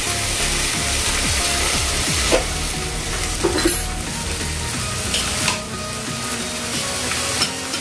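Mashed potatoes and tomato purée sizzling in hot oil in a kadai, a steady frying hiss. A wooden spatula stirs and scrapes against the pan a few times.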